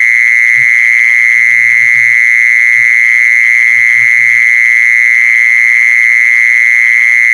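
Jee-son insect (แมลงจีซอน) calling: one loud, steady, high-pitched trill that holds the same pitch without a break.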